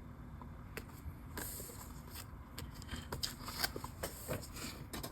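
Faint rustling, light crackles and small taps of paper washi tape being laid and pressed along a journal page.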